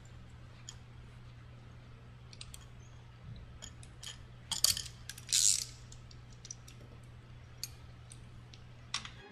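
Scattered metallic clicks and taps of bolts and a wrench being worked on a StairMaster SC916 drive hub as its bolts are fitted and tightened, with a loud cluster of clicks and a short rasping burst about halfway through. A steady low hum runs underneath.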